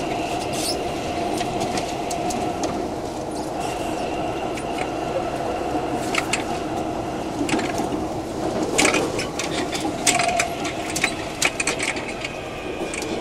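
Taipei MRT C371 metro train running, heard from inside the car, with the steady whine of its Mitsubishi IGBT-VVVF traction inverter and motors over the rumble of the wheels. Irregular sharp clicks and rattles come through, bunched together from about nine to twelve seconds in.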